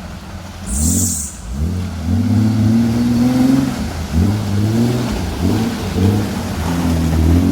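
Off-road 4x4's engine revving again and again, its pitch rising and falling. Short blips give way to longer, held revs, with a brief hiss about a second in.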